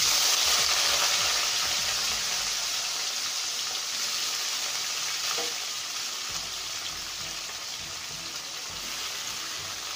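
Wet slices of bitter gourd, soaked in turmeric and salt water, sizzling as they are dropped by hand into hot oil in an aluminium kadai. The hiss starts suddenly and loudly, then slowly dies down as the oil settles.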